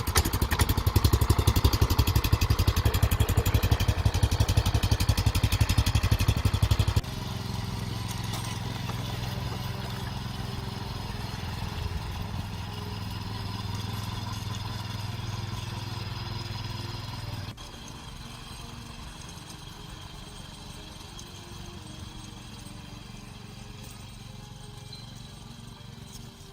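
Small four-stroke gasoline engine of a walk-behind cultivator running, loud at first. It drops to a quieter, steadier run about 7 seconds in and drops again at about 17 seconds.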